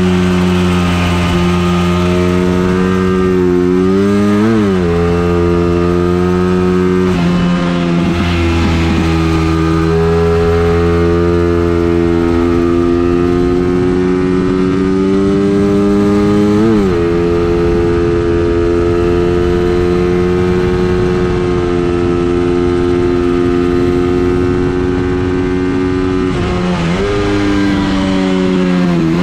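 Race vehicle's engine running hard on a circuit test lap, holding a steady note for long stretches, with the revs changing briefly about four seconds in, again near the middle, and once more near the end.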